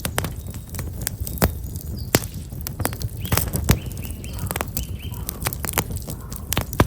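Black locust firewood burning in an open campfire, crackling with frequent sharp, irregular pops. A small bird chirps a few times in the middle.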